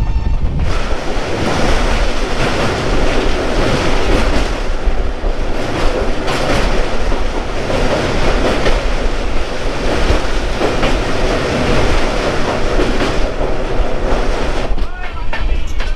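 Passenger express train running with a loud steady rumble and rush of noise, its wheels clattering over rail joints.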